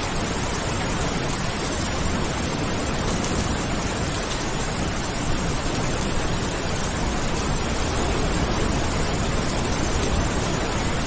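Steady rain falling, an even hiss with no breaks or thunderclaps.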